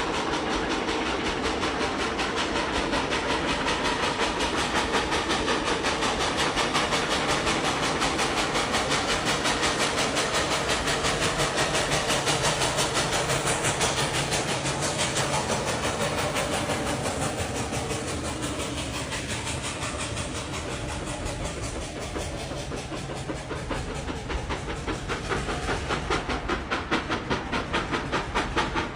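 A train running along the track with a steady, evenly repeating rhythmic beat. It dips somewhat about two-thirds through, then grows louder with stronger beats near the end.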